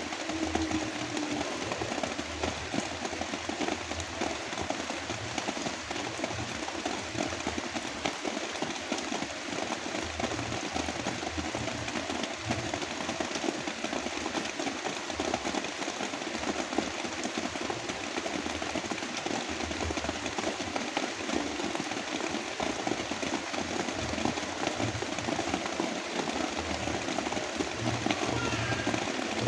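Heavy rain falling as a dense, steady hiss, layered with brown noise and a low rumble that comes and goes.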